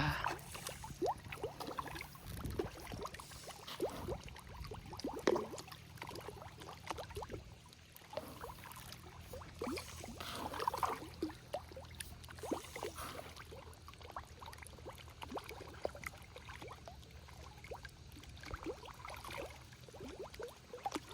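Small irregular splashes and plops in pond water, scattered through the stretch with no steady rhythm.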